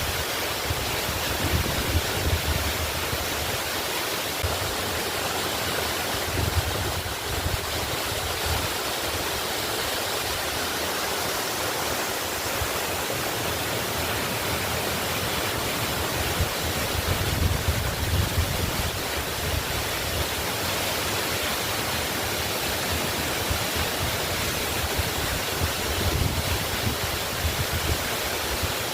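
Waterfall rushing steadily, a constant hiss of falling water with a fluctuating low rumble underneath.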